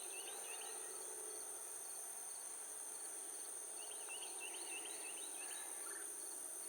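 Steady high-pitched insect trilling, with a bird's quick series of chirps at the start and again about four seconds in.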